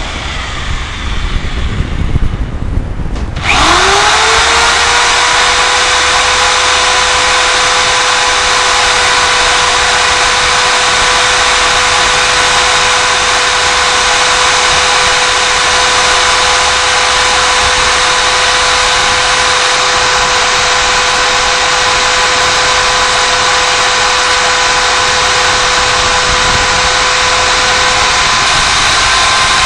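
Electric power tool spinning up about three and a half seconds in, then running at steady speed with a high whine and a grinding hiss, and winding down at the end: it is being used to work out a seized bolt from a Suzuki GS500 engine.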